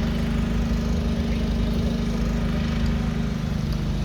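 A vehicle engine running steadily, with an even low drone and no change in speed.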